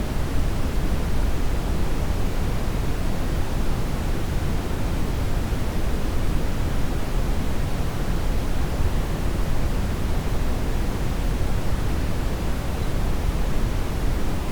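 Steady brown noise: an even, deep rushing hiss with most of its weight in the bass, not changing at all.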